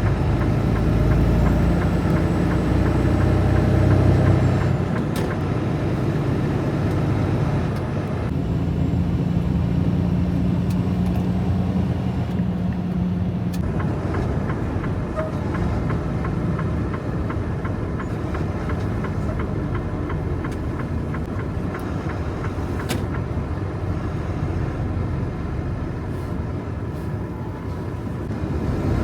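Heavy truck running with a steady engine drone and road noise, and a few faint clicks.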